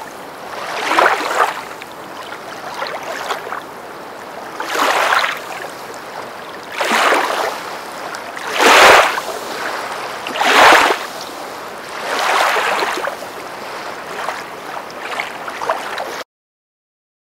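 Water washing in waves, a swelling rush about every two seconds over a steady hiss; it cuts off suddenly near the end.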